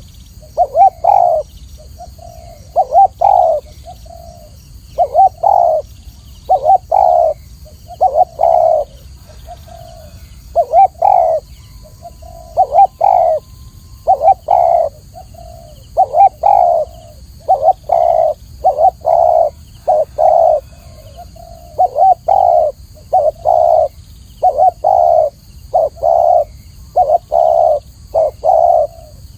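Spotted dove cooing over and over: low coos in short phrases of a few notes each, with brief pauses between phrases.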